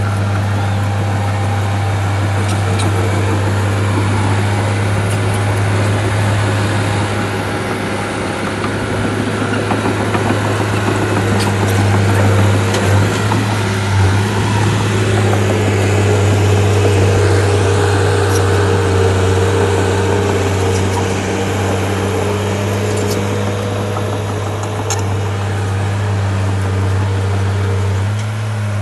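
A Shantui bulldozer's diesel engine runs steadily with a deep, constant drone, growing somewhat louder for a while in the middle.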